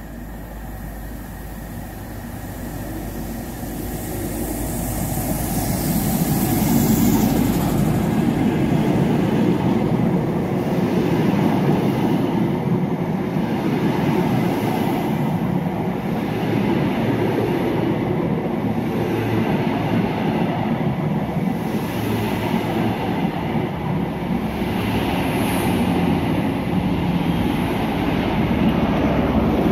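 CrossCountry High Speed Train with Class 43 diesel power cars approaching and passing close by, growing louder over the first several seconds. A high whine drops in pitch about seven seconds in as the leading power car goes by. The Mark 3 coaches then roll past with a steady loud rumble of wheels on rail.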